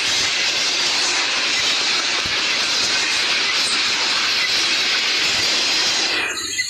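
Freight train rolling past, a steady hiss and rush of wheels on rail that cuts off suddenly near the end.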